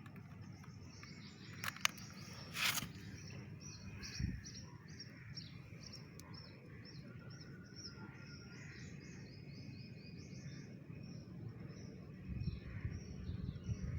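Small birds chirping over and over against a steady low outdoor background, with a couple of short clicks and a brief rustle about two seconds in. A low rumble builds near the end.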